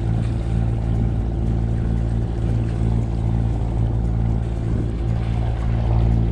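A catamaran's engine running steadily under way, a constant low drone with an even hum.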